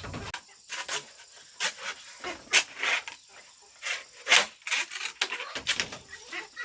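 Repeated rasping strokes of a tool working wood, two or three a second, uneven in spacing and strength.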